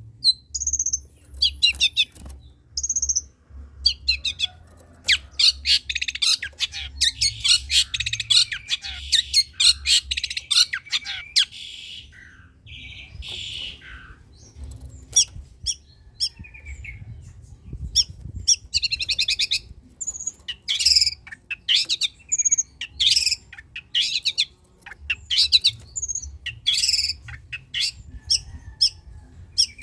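Long-tailed shrike (cendet) singing vigorously: a stream of short, harsh calls and fast trills in quick bursts, thickest in the first third, thinning out in the middle and picking up again after. A faint low hum runs underneath.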